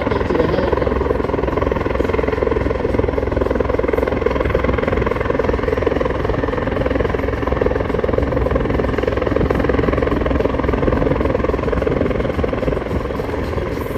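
CH-146 Griffon helicopter's rotor and twin turbine engines running with a steady, loud noise, unchanging throughout.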